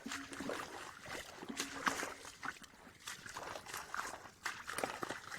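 Creek water trickling and sloshing, with many small irregular clicks.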